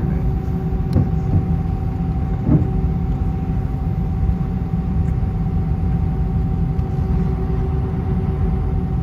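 Airbus A320 cabin noise: a steady rumble of engines and airflow with a few constant tones held over it, and a couple of faint knocks about one and two and a half seconds in.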